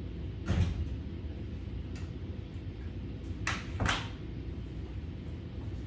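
Three short knocks or clatters, one about half a second in and a close pair near the middle, over a steady low hum.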